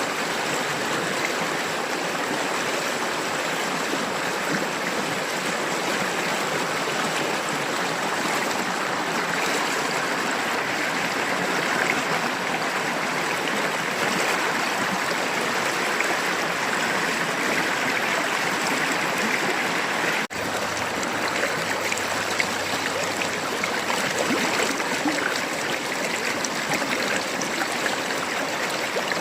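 River water babbling and rippling over rocks in a steady, continuous rush. It briefly drops out for a split second about two-thirds of the way through.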